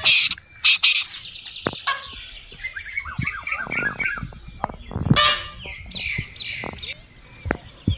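Mixed bird calls, likely poultry or other fowl: loud harsh calls right at the start and about five seconds in, among many softer short chirps and calls.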